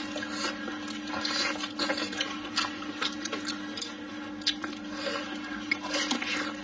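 Close, wet chewing and lip smacking of braised pork trotter with rice: many small, irregular smacks and clicks. A steady low hum runs underneath.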